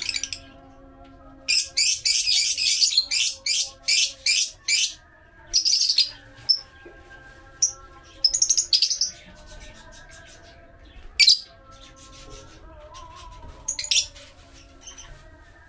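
Lovebirds chirping in repeated high-pitched bursts: a quick run of chirps from about 1.5 to 5 seconds in, then shorter clusters near the middle and toward the end.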